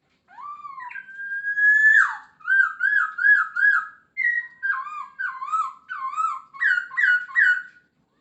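Poksay Hongkong laughingthrush singing in full voice. A long rising whistle is followed by runs of repeated slurred whistled notes, about three a second. The run shifts to a new phrase about halfway through.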